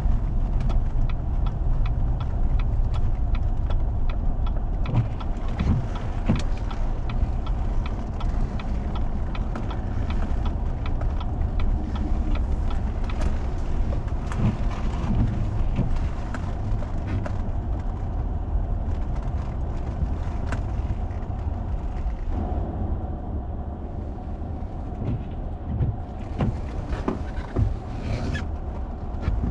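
Four-wheel-drive vehicle driving on a snow-covered road: a steady low rumble of engine and road noise, with frequent small clicks and crackles. The rumble eases a little about three quarters of the way through.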